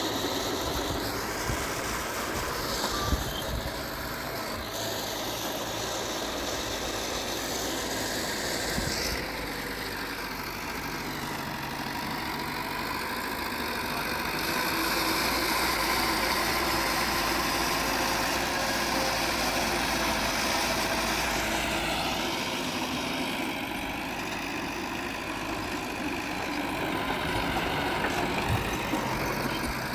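Diesel engine of heavy earthmoving machinery running, its note shifting as the load changes and a little louder about halfway through.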